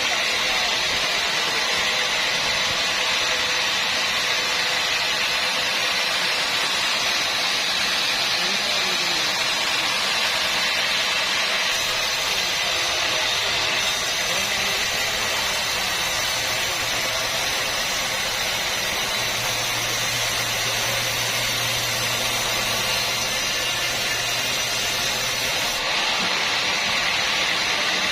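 Sawmill machinery running steadily: a loud, even mechanical noise. A low hum joins it about halfway through and drops away near the end.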